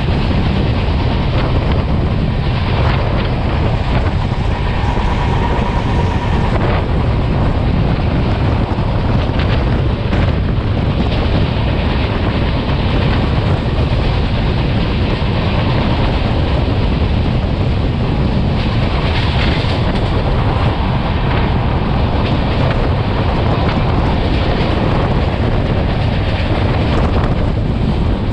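Running noise of a moving Indian Railways passenger coach heard at its open door: a loud, steady rumble of wheels on rails, with wind buffeting the microphone.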